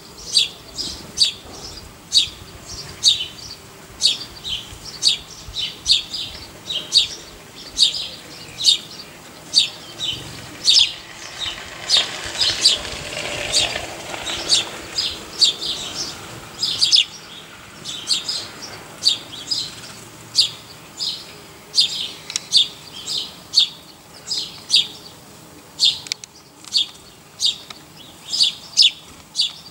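A small bird chirping over and over: short, sharp, high chirps about two a second with brief irregular gaps.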